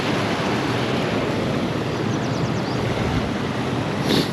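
Creek white water rushing below a dam, a steady even hiss of moving water, with a brief sharp sound near the end.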